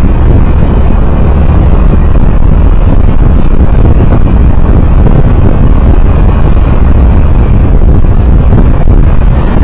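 Loud, steady low rumble of a road vehicle in motion, mixed with wind noise on the microphone.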